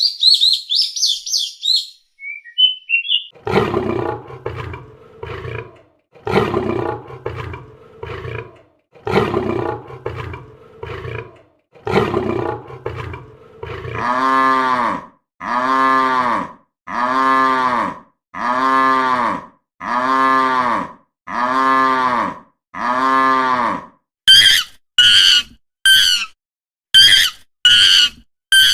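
A run of different recorded animal calls. Brief high bird chirps come first, then from about three seconds in a series of deep, rough roars in groups, then about eight evenly spaced pitched calls that each rise and fall, and in the last few seconds short, high squealing calls.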